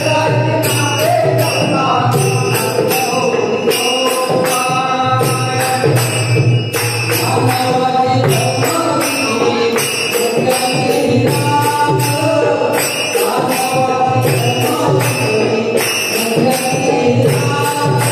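Marathi devotional bhajan being performed: voices singing the abhang over held instrumental tones, with a steady beat of jingling hand cymbals.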